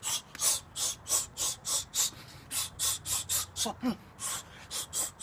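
A boxer's sharp hissing exhalations with each punch in a fast combination, about three a second, pausing briefly about two seconds in. Near four seconds he lets out a short falling grunt.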